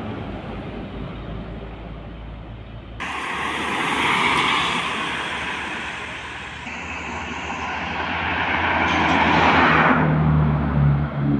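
Heavy road traffic, diesel trucks passing: engine and tyre noise swells and fades, changes abruptly about three seconds in, and ends with a steady engine hum close by.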